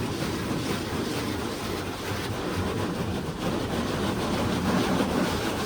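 Futura Impulse touchless car wash spraying water jets onto the car, heard from inside the cabin as a steady rushing of water on the body with a low rumble.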